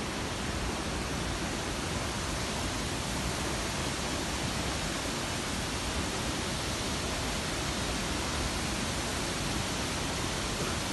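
Steady, unbroken roar of a waterfall's falling water at Aberdeen Falls.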